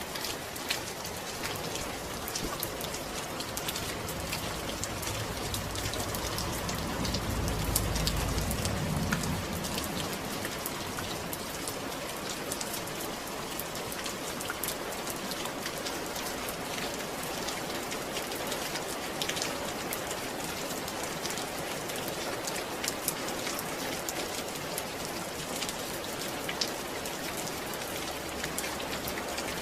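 Steady rain falling, a continuous hiss with the close patter of individual drops. A low rumble swells briefly about seven to nine seconds in.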